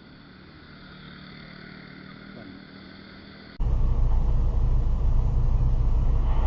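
Faint steady vehicle hum with a few thin, steady high tones, then an abrupt cut about three and a half seconds in to a loud, steady low rumble of a vehicle driving, as a dashcam picks it up.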